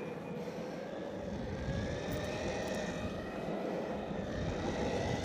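Exway Flex Pro V3 electric skateboard riding: the steady roll of urethane wheels on asphalt under a thin electric motor whine whose pitch drifts gently with speed.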